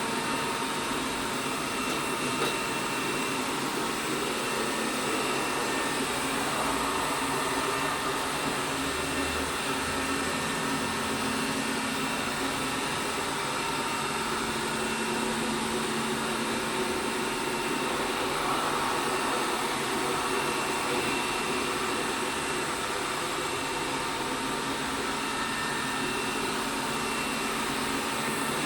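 ELARI SmartBot Lite SBT-002A robot vacuum cleaner running: a steady whir with a few faint steady tones.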